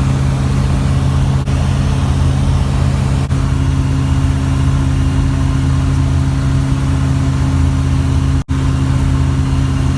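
Piston engine and propeller of a Zodiak 601 light aircraft running steadily, a loud low drone. The sound cuts out for a moment about eight and a half seconds in.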